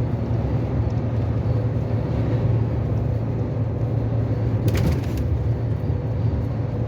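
Steady engine drone and road noise inside a Volvo truck's cab while cruising on the highway, with a brief scratchy noise about five seconds in.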